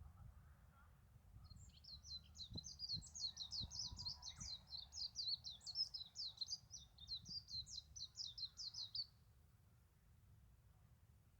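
A small bird singing one long, fast run of high chirping notes, about four a second, for some seven seconds, then breaking off. A few faint knocks come in under it early on.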